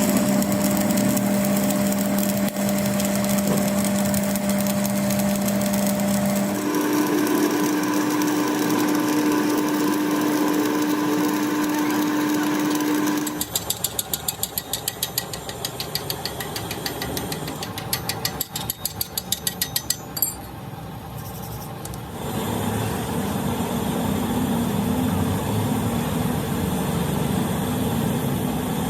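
Machine shop machinery running with a steady hum that steps up in pitch partway through. Rapid, even ticking follows for several seconds, then a rougher, noisier run.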